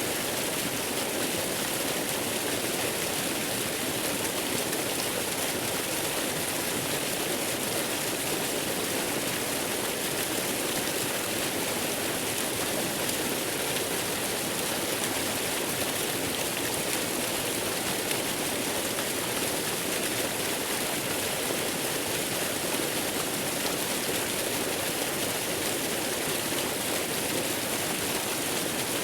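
Waterfall's falling water rushing in a steady, unbroken hiss that does not change.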